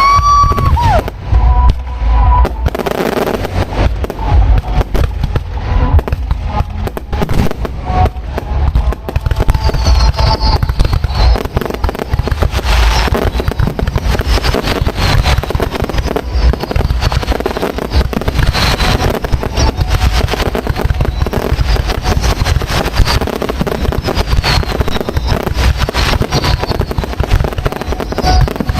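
Fireworks display at close range: a dense run of bangs and booms over a constant deep rumble, with a short whistle at the start and high whistling shells about ten seconds in.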